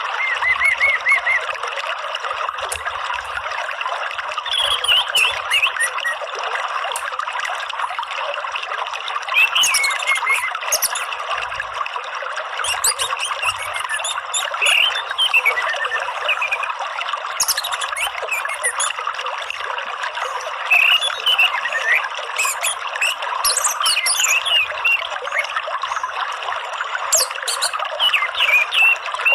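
Steady trickling, flowing water with scattered bird chirps and short whistled calls over it: a water-sound therapy track for caged songbirds.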